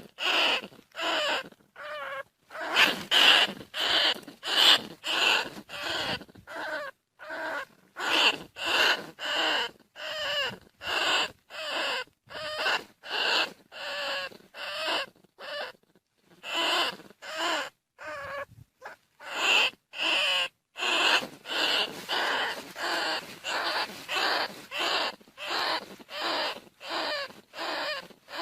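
Bandicoot rat calls: short, wavering squeaky cries repeated over and over, one every half to three-quarters of a second, with brief silent gaps between them.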